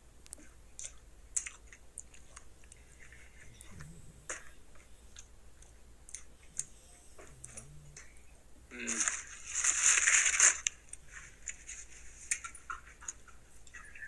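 A person chewing a burger, with small wet clicks of the mouth. About nine seconds in, a louder rustling noise lasts roughly two seconds.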